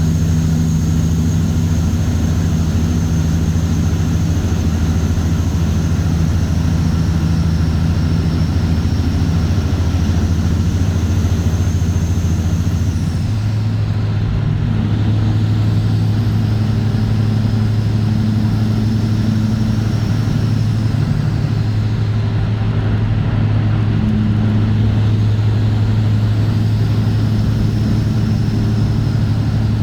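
Straight-piped Cat C15 ACERT inline-six diesel in a Kenworth W900, running steadily with a low exhaust drone. About halfway through, the engine note steps up to a higher, steady pitch.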